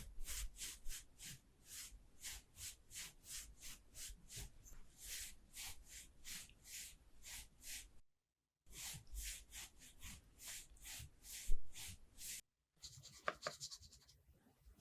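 Quick, rhythmic swishing strokes, about three a second, of a makeup applicator blending thick cream across a watermelon's rind. The strokes pause briefly twice, and there is one louder tap about eleven and a half seconds in.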